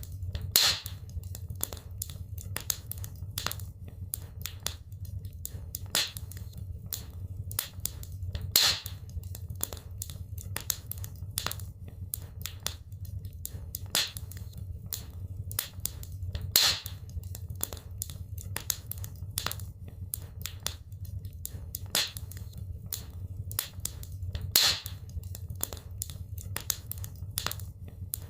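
Wood fire crackling in a fireplace: dense sharp snaps and pops, with a louder pop about every eight seconds, over a steady low rumble.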